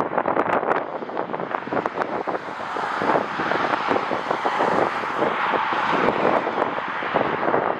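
Strong wind buffeting the microphone in gusts, with the steady rush of a jet airliner's engines swelling from about three seconds in.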